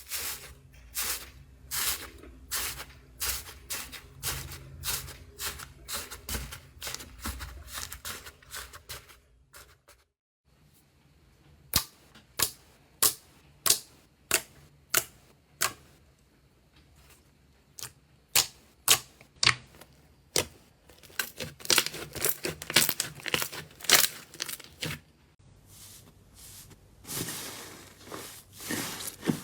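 Slime being pressed and poked, giving a run of sharp crackling clicks and pops. The sound changes twice, near ten seconds and near twenty-five seconds, and in the middle stretch comes as about one loud pop a second.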